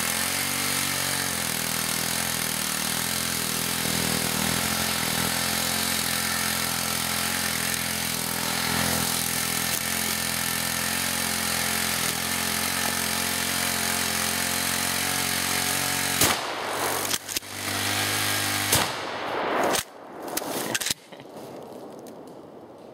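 Small gasoline engine running steadily at a fast idle, then hit by shotgun slug shots: two sharp shots about three seconds apart near the end. After the second shot the engine stops running, knocked out by the slugs.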